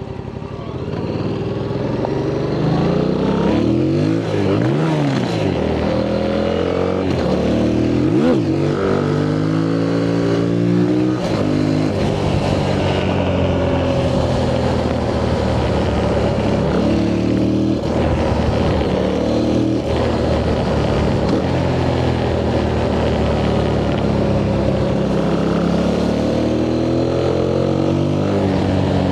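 Yamaha MT-07's parallel-twin engine through its stock exhaust, pulling hard through the gears again and again, its pitch climbing and dropping with each shift. Quieter for the first second or so, then loud.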